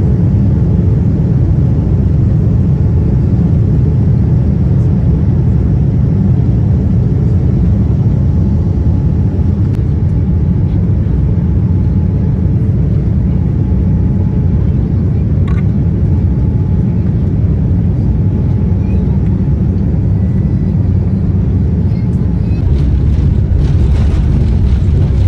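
Aircraft in flight: a loud, steady low rumble of engines and rushing air that does not change.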